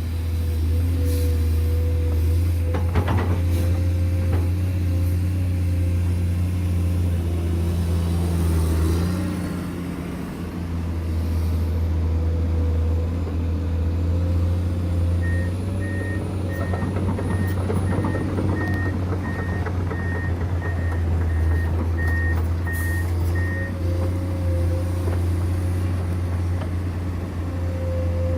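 Heavy diesel construction machinery running steadily with a low engine hum. Partway through, a reversing alarm beeps at an even pace for about eight seconds before stopping.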